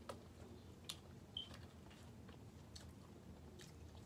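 Faint chewing and small wet mouth clicks from people eating French fries, a few soft ticks scattered through, with one brief high squeak about a third of the way in.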